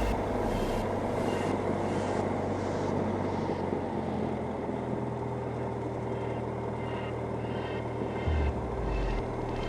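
Cessna 172M's four-cylinder Lycoming O-320 piston engine running steadily at low power, with an even drone and the propeller turning.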